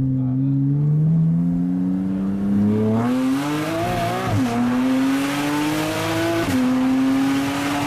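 Porsche 981 Boxster S flat-six on an Armytrix valved exhaust with headers and sport catalytic converters, accelerating through the gears. The engine note climbs steadily, drops sharply at an upshift about four seconds in and again about two seconds later, then climbs again.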